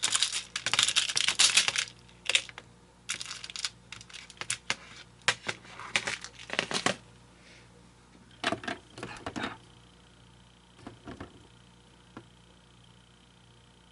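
Small hard objects clattering and rattling as they are handled and rummaged through, densest and loudest in the first two seconds, then scattered clicks and short rattles. A faint steady high-pitched whine comes in about eight seconds in.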